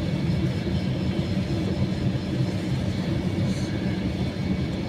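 Steady low rumble inside the cabin of an Airbus A321-200 taxiing, its jet engines running at taxi power.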